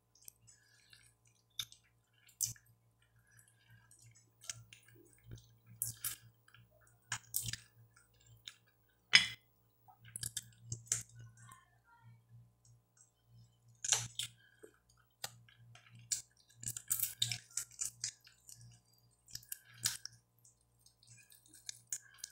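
Close-up mouth sounds of someone eating roast chicken by hand, chewing and nibbling meat off small bones: scattered wet clicks and smacks at irregular intervals. A faint steady low hum runs underneath.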